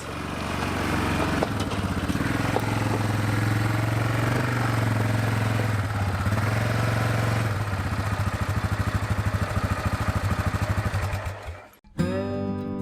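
A motor vehicle's engine running steadily, then settling to a slower, pulsing idle before it cuts off near the end. Acoustic guitar music comes in right after.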